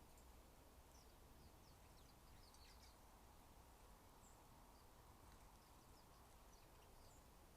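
Faint, scattered high-pitched chirps from small backyard birds, several close together about one to three seconds in and a few single ones later, over a low steady background hum.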